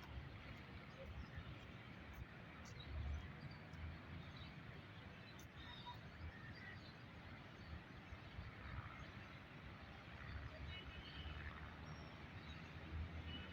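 Faint outdoor background: a low, steady rumble with a few faint bird chirps.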